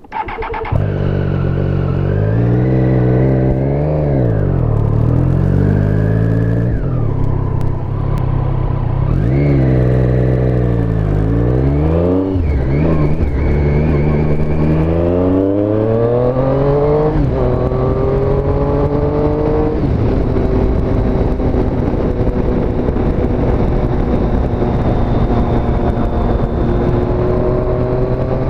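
Triumph Street Triple S 765 cc three-cylinder engine running loud, its pitch swinging up and down several times, then pulling more steadily with a slowly rising pitch.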